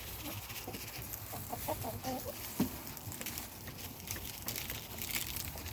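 Backyard chickens settling on the roost for the night, clucking softly a few times, with light ticking throughout and one sharp knock about two and a half seconds in.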